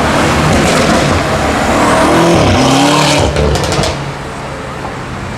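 BMW M5 F90's twin-turbo V8 revving, its pitch rising and falling, with a quick string of sharp exhaust pops about three and a half seconds in, after which it drops back quieter.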